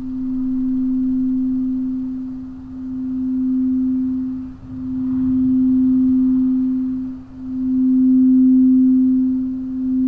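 Crystal singing bowl sounding one pure, steady low tone that swells and fades in slow waves every few seconds.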